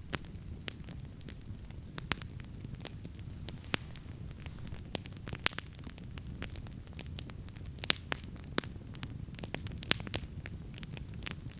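Wood campfire crackling: irregular sharp pops and snaps, a handful of them louder than the rest, over a steady low rumble.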